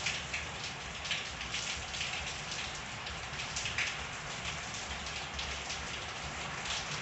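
Steady rain falling in a backyard, with a constant hiss and many separate drops striking surfaces.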